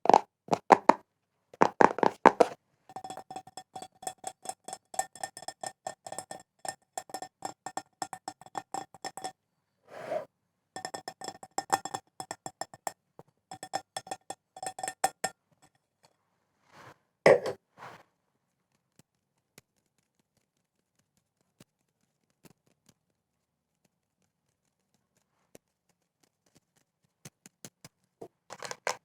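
Rapid ASMR tapping on a hard object that rings with a clear, steady tone under the taps, in runs broken by short pauses. About two-thirds of the way through the tapping stops for roughly ten seconds, then starts again near the end.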